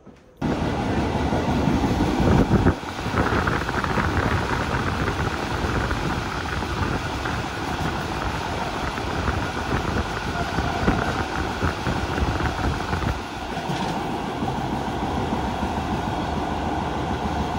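Train running along the track, heard from on board at the window: a loud, steady rumble of wheels on rail mixed with rushing air, starting abruptly about half a second in.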